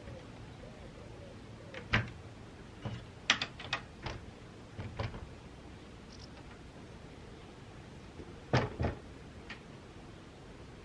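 A door being unlocked and opened: a scatter of sharp clicks and knocks in two groups, about two to five seconds in and again near nine seconds.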